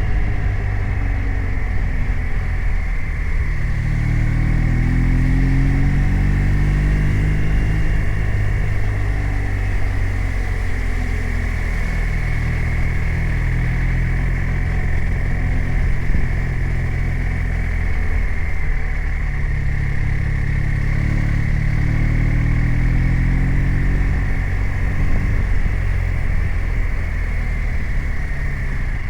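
BMW R 1250 RT's boxer twin engine running under way. The revs climb and ease off twice as the bike accelerates and slows.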